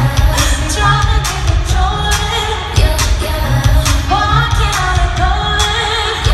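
Live amplified pop music at a concert, recorded on a phone: a heavy pulsing bass beat and sharp percussion hits under lead singing.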